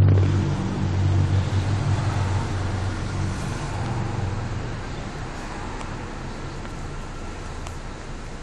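A car engine running nearby as a low hum, loudest at the start and fading away over about five seconds, leaving a steady faint traffic noise.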